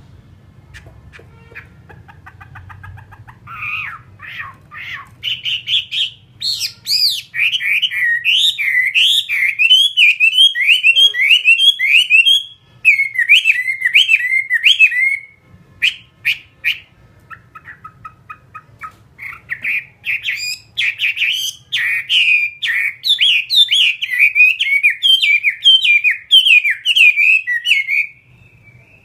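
Chinese hwamei singing: long, loud runs of rapid, repeated whistled notes. Partway through the song drops to softer notes for a few seconds, then comes back loud.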